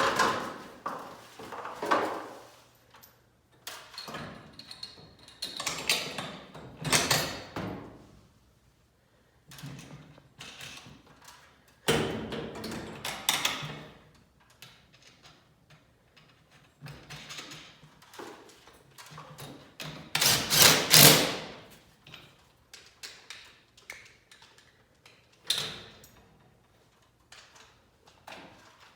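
Hand-tool and hardware work on a garage door torsion spring assembly, with hanger bolts being fitted to mount it on the header board: irregular knocks and clatters, and two longer, louder noisy stretches about twelve and twenty seconds in.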